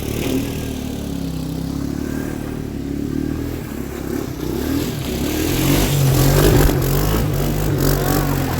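Three-wheeler ATV's small engine running under way, getting louder and revving harder about halfway through.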